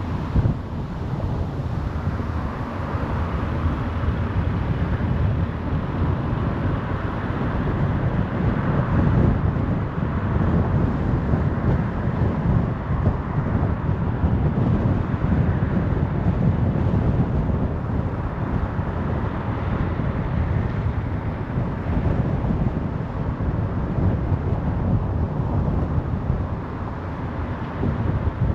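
Car driving along a road: steady tyre rumble and wind noise, strongest in the low end, swelling and easing slightly.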